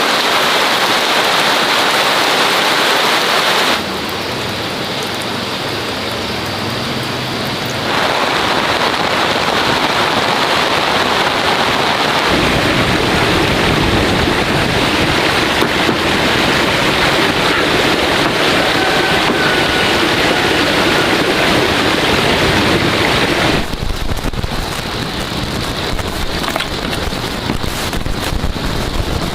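Steady, loud rushing water noise in several stretches, with abrupt changes in level and tone about 4, 8, 12 and 24 seconds in.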